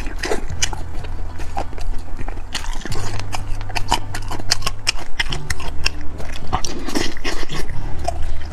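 Close-miked chewing of Chinese sausage (lap cheong): fast, irregular wet smacks and clicks of the mouth working the meat.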